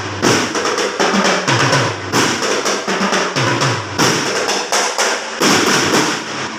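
Drums played together: fast snare-drum rolls and strikes over a low drum figure that repeats about every two seconds, stopping at the end.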